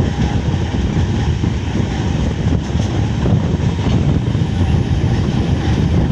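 Train running along the track: a steady, loud rumble.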